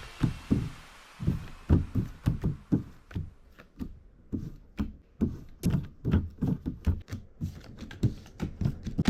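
Playing cards being slapped down onto a mat in a fast game of Speed: quick, irregular thuds and taps, a few a second.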